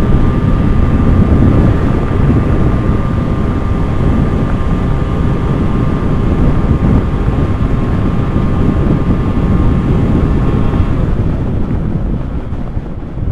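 Wind buffeting the microphone on a moving motorcycle, over the steady hum of its engine at cruising speed. The engine note and wind ease off about eleven seconds in.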